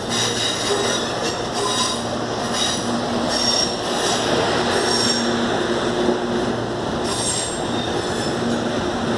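Steel wheels of a CAF series 7000 electric multiple unit squealing on the rails as the train moves slowly through the crossover, in repeated high squeals roughly once a second over the steady rumble of the running train.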